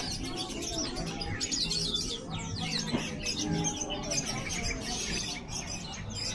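Many small birds chirping and twittering at once, a dense tangle of quick, high, overlapping calls.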